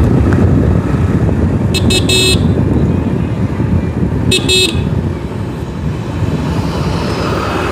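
Steady rumble of a motorcycle ride on a highway, with short high vehicle-horn toots: a quick run of beeps about two seconds in and another pair about four and a half seconds in.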